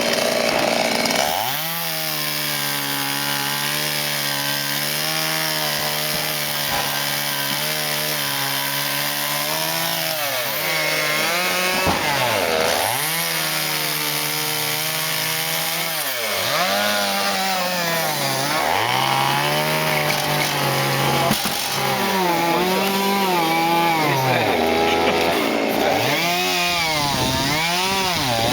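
Chainsaw engine running steadily, then its pitch repeatedly drops sharply and climbs back as it is throttled and loaded, with the dips coming faster near the end.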